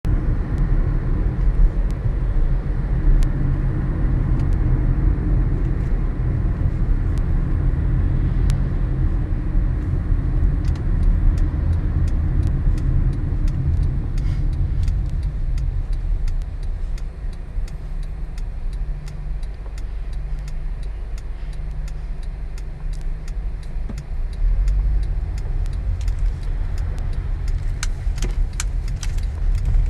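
A car running at low speed, a steady low rumble, with scattered light ticks that grow more frequent near the end.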